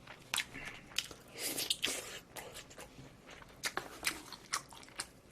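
Close-miked eating sounds: a person chewing food, with irregular short crunchy bites and mouth clicks.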